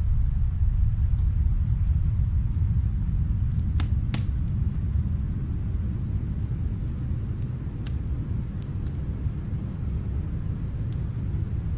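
Wood fire crackling in a fireplace: a few sharp pops and snaps, two close together about four seconds in, over a steady low rumble.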